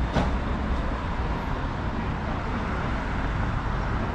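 A car on the move: a steady rumble of engine and road noise, with one short click about a quarter of a second in.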